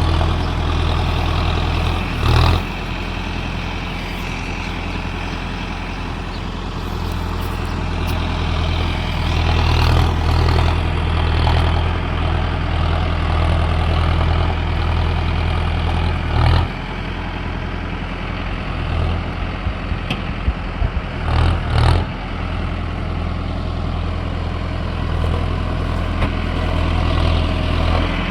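Tractor diesel engine running steadily, with a few brief louder bursts about two seconds in, midway and near the end.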